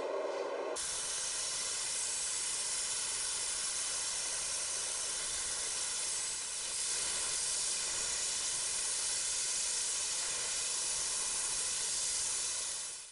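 A steady, loud hiss that starts abruptly about a second in, dips briefly around the middle and cuts off just before the end.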